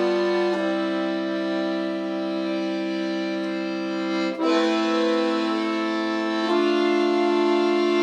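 Solo accordion playing an arrangement of a Russian folk tune: long held chords that change three times, with the bass dropping to a lower note about halfway through.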